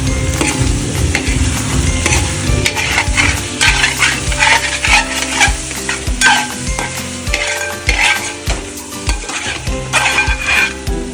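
Chicken sizzling as it fries in a hot pan while it is stirred hard. The spoon or spatula scrapes and knocks against the pan over and over at an uneven pace.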